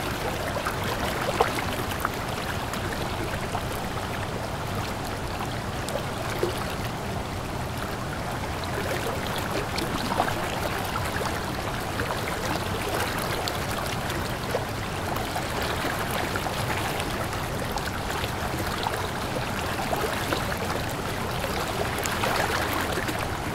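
A river stream running over rocks: a steady rush of water with gurgling and small splashes.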